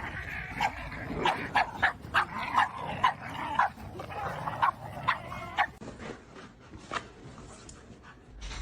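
A dog barking in a quick run of short, sharp barks for about five seconds, then quieter with only a few faint sounds.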